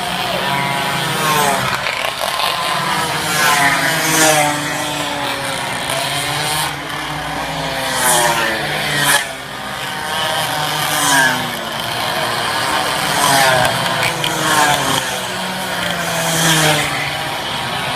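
Racing minibike engines revving high, several at once, their pitch rising and falling again and again as bikes pass.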